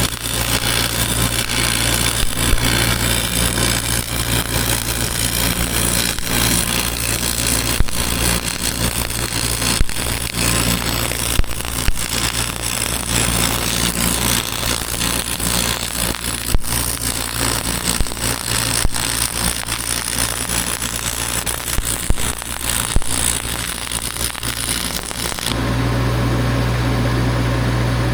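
Welding arc crackling and sputtering on steel over the steady hum of a running engine. The arc stops suddenly near the end, leaving the engine hum alone.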